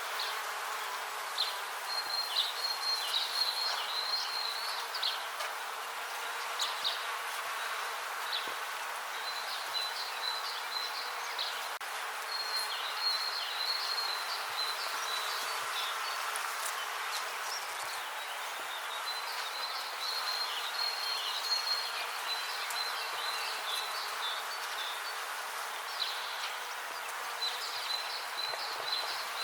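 Bees buzzing steadily as a dense, even hum, with short high chirping trills coming and going every few seconds.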